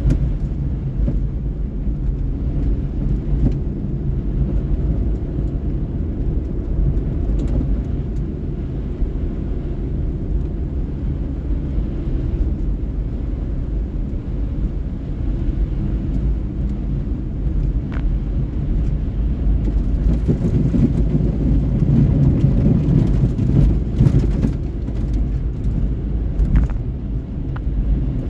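Car driving: a steady low rumble of engine and tyres on the road, swelling for a few seconds about two-thirds of the way through before settling back.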